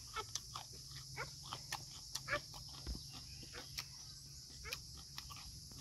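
Close-up chewing of a bite of green banana: small wet mouth clicks and smacks, irregular, several a second. Under it runs a steady high insect drone.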